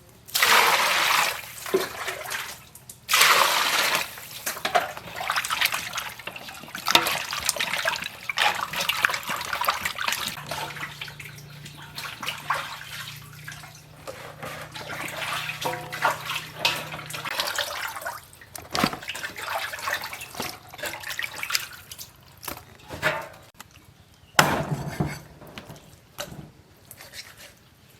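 Water splashing and pouring in irregular bursts, with drips and small knocks, as of food or utensils being washed by hand in a basin.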